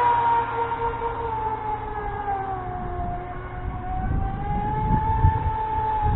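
Feilun FT011 RC racing boat's brushless electric motor whining at speed, the pitch sagging, rising again and dipping as the throttle changes. A low rumble comes in about four seconds in.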